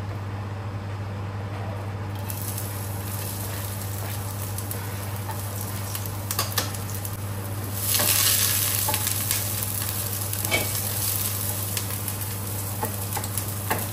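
Onion and garlic frying in hot oil in a non-stick pot. The sizzle starts about two seconds in and swells sharply about eight seconds in as more onion goes in. A knife scrapes the onion off the board and a wooden spatula clicks against the pot in stirring, all over a steady low hum.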